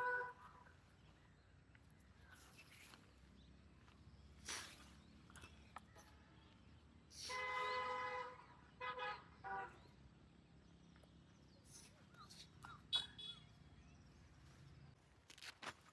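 A vehicle horn honking: one long honk about seven seconds in, then two short honks.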